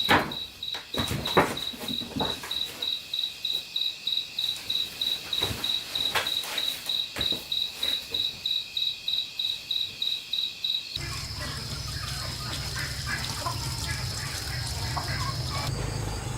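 An insect chirping in a steady, even rhythm, a high pulse about three to four times a second, with a few sharp knocks over it. About eleven seconds in, the chirping stops abruptly and a steady low hum takes over.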